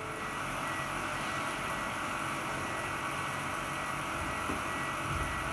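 Steady mechanical hum with a thin, high-pitched whine; a deeper rumble comes in near the end.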